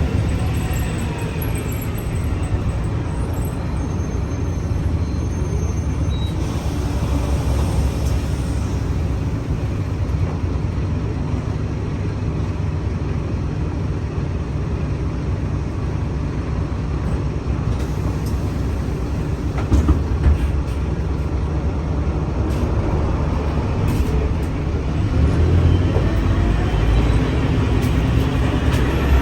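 Scania K310UA articulated bus's five-cylinder diesel engine running on the road. The engine note falls away early on, and a short hiss of air comes about six seconds in. Near the end the pitch climbs and it grows louder as the bus accelerates again.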